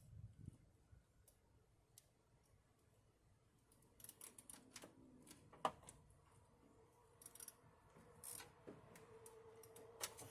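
Faint, irregular clicks and ticks of hand tools being worked under a vehicle, with one sharper click about halfway through.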